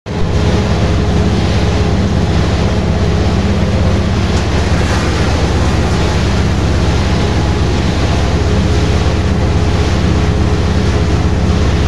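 Raisin-sorting machinery running steadily: a constant low machine hum under an even noise, with no change in pace.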